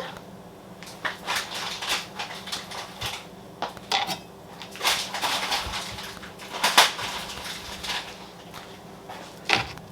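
Kitchen clatter: utensils and dishes clinking and knocking irregularly, with a few sharper knocks.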